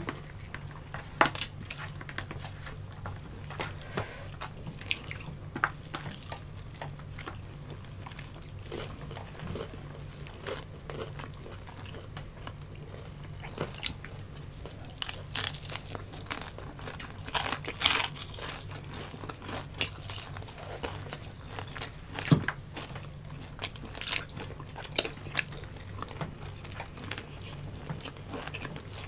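Close-miked eating sounds: crunching and chewing of crispy deep-fried pork belly (bagnet) with rice, with scattered sharp crackles and wet mouth clicks over a steady low hum.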